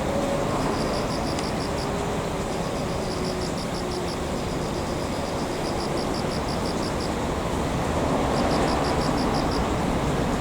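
Steady rumble of rail vehicles being hauled slowly through a depot yard by a switcher, with a faint wavering hum. Short runs of rapid high chirps repeat every second or two over it.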